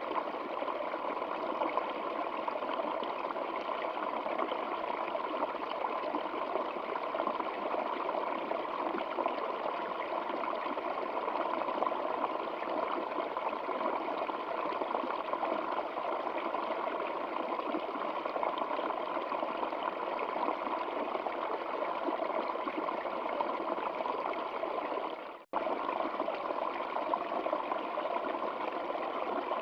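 A stream of water flowing and trickling steadily. Near the end it fades out for an instant and comes back abruptly, like a loop being joined.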